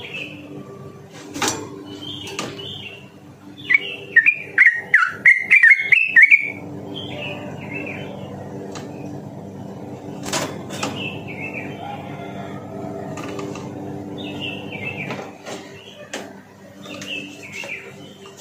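Yellow-vented bulbul (trucukan) singing: short bubbly chattering phrases, with a loud, rapid run of notes from about four to six seconds in. A low steady hum and a few sharp clicks lie beneath.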